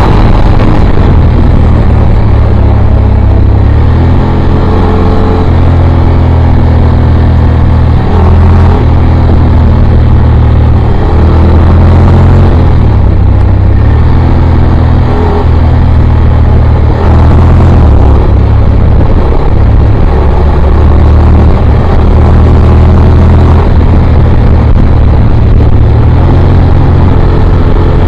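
Motorcycle engine and exhaust running at road speed, loud and continuous, its low pitch holding steady and then shifting to a new level every second or few.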